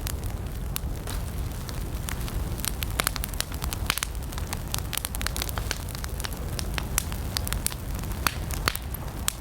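Campfire of burning wood crackling: irregular sharp pops and snaps, several a second, over a steady low rumble of the flames.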